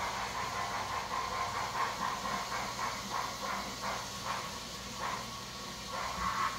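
O-scale model steam locomotive's sound system chuffing in an even rhythm, about two or three chuffs a second, over a steady hum.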